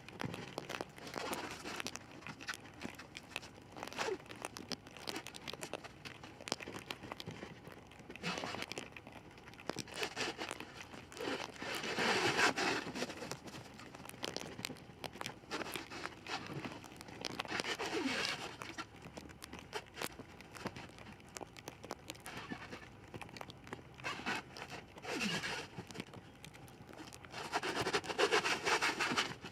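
Industrial pallet wrap (plastic stretch film) being pulled off the roll and stretched: crinkling, tearing-like rasps in repeated bursts, the loudest about twelve seconds in and near the end.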